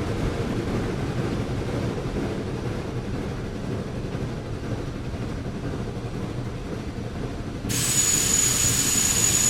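Train rumbling steadily along the track. Near the end the sound changes abruptly to a louder, brighter one with a steady high whine.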